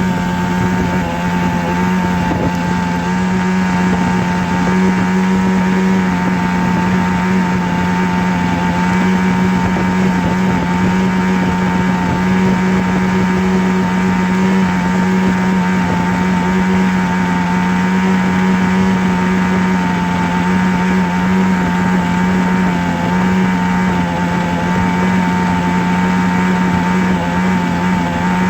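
A steady, unbroken low drone with one strong held pitch over a noisy hum, like a motor running at constant speed.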